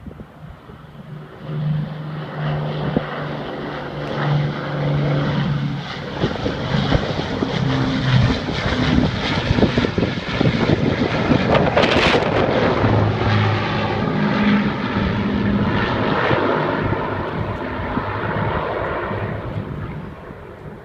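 Piston-engined propeller aircraft led by two Avro Lancasters, each with four Merlin V12 engines, passing in a low flypast. The engine drone builds up and drops in pitch as they go by, with a sudden loud rush about twelve seconds in, then fades near the end.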